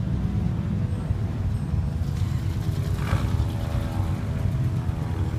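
Car engines running in cruise traffic: a steady low rumble, with a brief rise about three seconds in.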